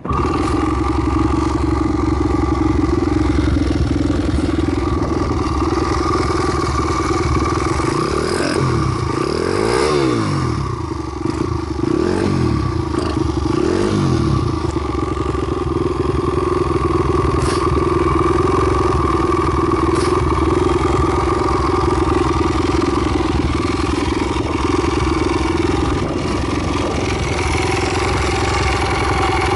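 Single-cylinder four-stroke motorcycle engine, a Takegawa 124cc long-stroke kit with a four-valve Super Head, running through a Yoshimura Cyclone upswept exhaust. It idles steadily and is revved up and back down about four times in quick succession about a third of the way in, then settles back to idle.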